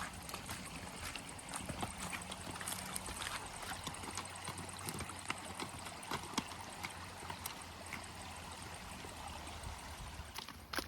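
A mountain stream running and gurgling over stones, heard as a steady rush, with scattered sharp clicks on top.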